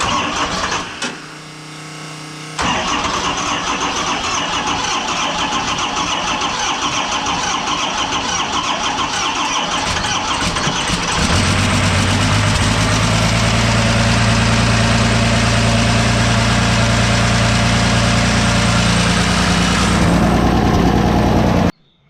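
Cummins 12-valve diesel being cranked and starting on its first start after the swap, still without its turbo hooked up: it fires about two and a half seconds in and runs loudly. About eleven seconds in it settles into a steadier, deeper running note, and it cuts off suddenly near the end.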